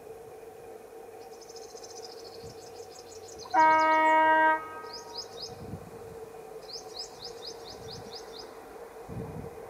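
Diesel locomotive horn sounding one blast of about a second, a little over halfway through. Small birds chirp in quick repeated trills before and after it.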